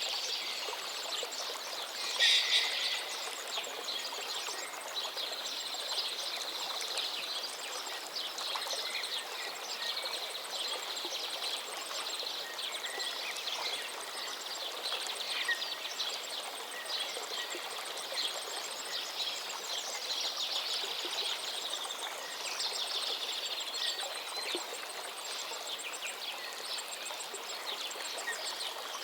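Songbirds singing over the steady rush of a flowing stream, with a loud bird phrase about two seconds in.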